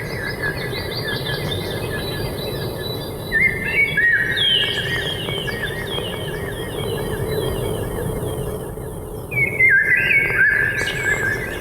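Several wild songbirds singing together in woodland, in overlapping phrases of quick chirping notes. The singing swells about a third of the way in and again near the end, over a steady low background rush.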